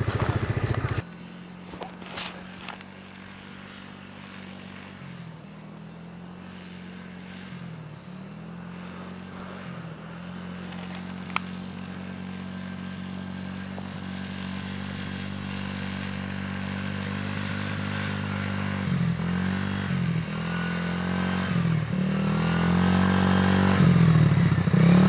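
Small dirt bike engine running, loud and close for the first second, then suddenly much quieter and farther off. Its pitch dips as the throttle eases off and comes back on several times, and it grows steadily louder as the bike rides closer.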